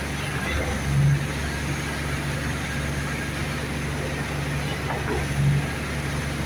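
Concrete truck's engine running steadily at a constant speed, surging louder twice, about a second in and again near the end.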